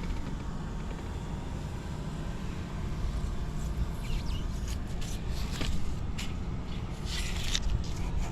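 Honda Ape 50's single-cylinder four-stroke engine idling steadily through a Racing Service ZERO aftermarket muffler, running with no abnormal noise. A few brief sharp clicks or knocks come through in the second half.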